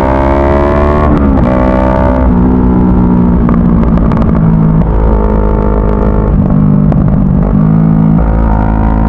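CFMoto 400NK's parallel-twin engine running under throttle: its pitch climbs, drops sharply about a second in as it shifts up a gear, then holds fairly steady with small rises and dips.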